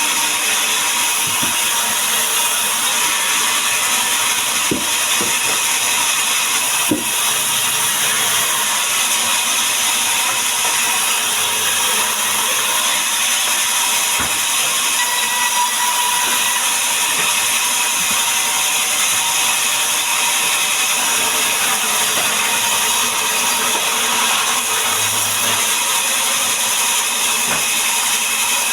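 A woodworking power tool running steadily and loudly, with a few light knocks about five and seven seconds in.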